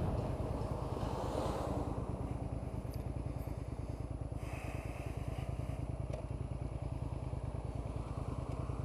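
Suzuki SV650's 90-degree V-twin engine idling steadily at a stop, an even low pulse.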